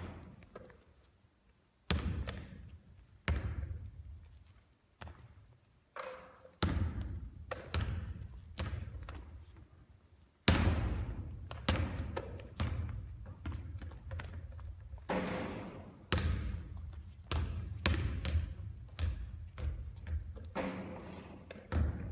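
A basketball bouncing and thudding on a court again and again, about once a second at uneven intervals, each impact trailing off in echo.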